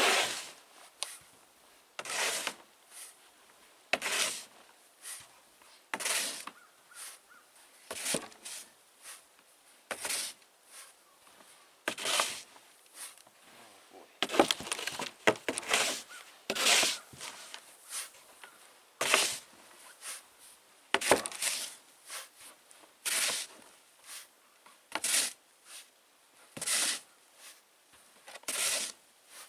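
A snow shovel cutting into and scraping through deep, fine, heavy snow in a steady rhythm, about one scoop every two seconds.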